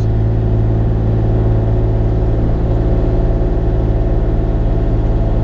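Bobcat E35 mini excavator's diesel engine running at a steady speed, an even hum with no change in pitch.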